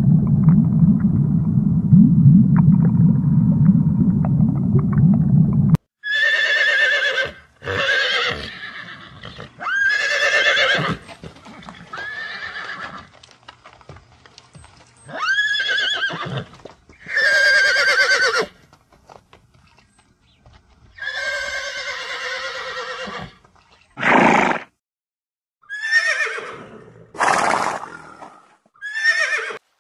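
A low rumble cuts off abruptly about six seconds in. A horse then whinnies about eleven times, each neigh a shrill call that rises and falls, with short pauses between.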